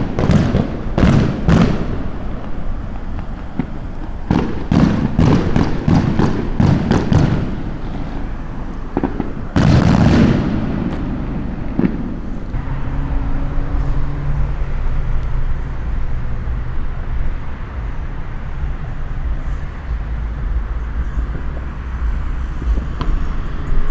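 Fireworks exploding in a ragged series of bangs: a few at the start, a dense cluster a few seconds later, and one big boom about ten seconds in. After that the bangs stop and a steady low rumble from a vehicle carries on.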